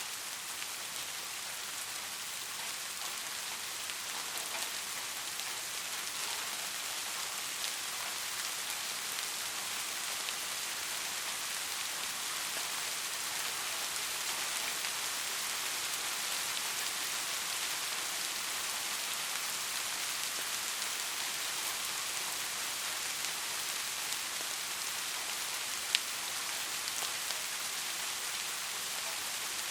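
Steady rain falling, a dense even hiss of drops with scattered individual drop ticks and one sharper tick near the end.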